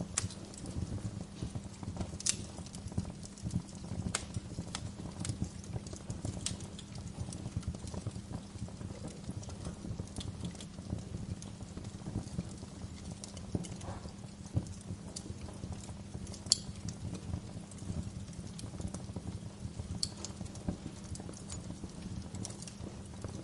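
Wood fire burning in a fireplace: a steady low rumble of flames with frequent irregular crackles and sharp pops from the burning logs, one pop louder than the rest about 16 seconds in.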